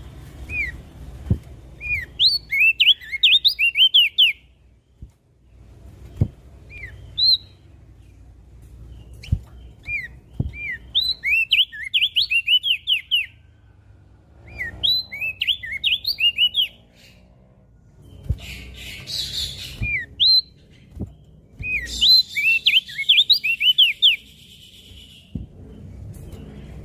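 Crested white-eye (opior jambul) singing in repeated bursts of rapid, sharply sweeping chirps, each phrase lasting one to four seconds with short pauses between. A low background rumble and a few soft knocks lie underneath.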